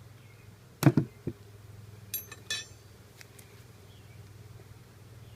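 Honeybees buzzing around an open hive as a steady low hum. About a second in come three loud knocks of hive parts being handled, then two sharp ringing clinks, like a metal hive tool striking.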